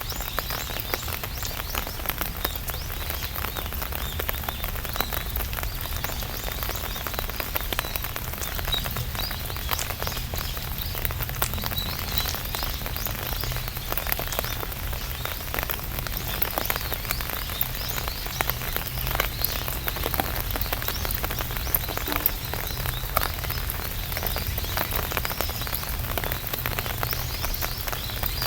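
Rain falling on an umbrella canopy: a steady, dense patter of many small drop taps, with a low rumble underneath.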